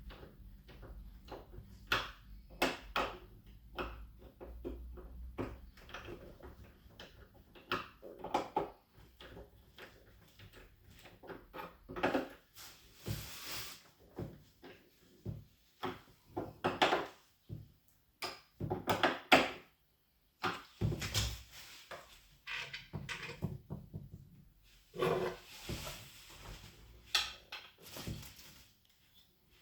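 Handling of a large TV's cardboard box and packaging: irregular knocks, clicks and scrapes, with a few short rustles.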